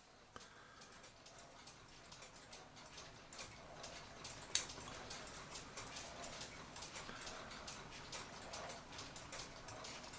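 Faint, scattered small clicks and ticks, with one sharper click about four and a half seconds in.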